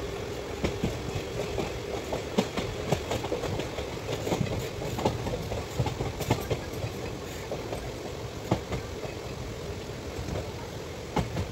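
Passenger train running on rails, heard from inside the coach at its window: a steady rumble of wheels on track with many irregular clacks of wheels over rail joints.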